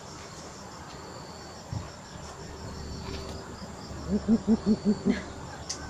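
A coucal (bubut) gives a quick run of six deep hoots, about six a second, starting about four seconds in. Behind it is a steady, rhythmic insect chirping.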